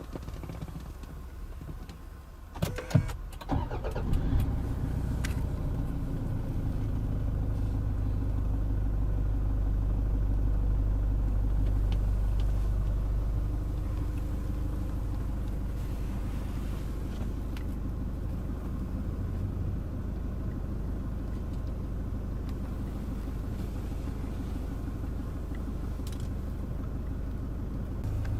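2015 Toyota Land Cruiser Prado engine started with the push button: a short crank about three seconds in, then it catches. It runs at higher revs for several seconds before settling to a steady idle.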